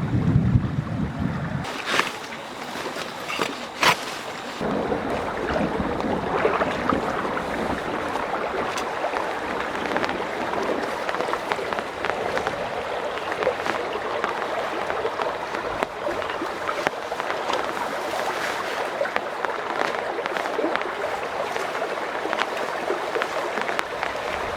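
Heavy rain falling steadily: a dense, even hiss with scattered sharper drop ticks. In the first couple of seconds a low rumble sits under it and stops suddenly.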